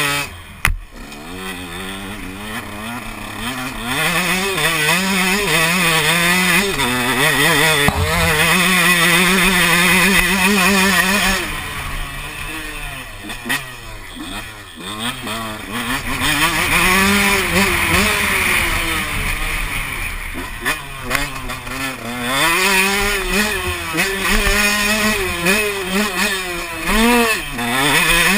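Motocross bike engine revving up and dropping back again and again as the rider accelerates, shifts and brakes around the track.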